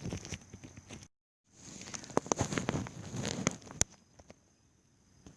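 Handling noise from working on parts by hand: scattered small clicks and rustling, cut by a brief dropout about a second in, with a sharp click near four seconds, then it goes quiet.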